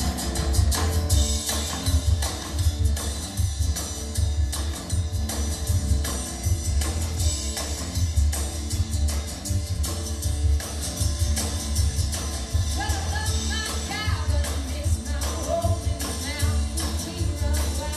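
Live folk-blues band playing an instrumental stretch with guitar and a steady beat; a singing voice comes back in about two-thirds of the way through.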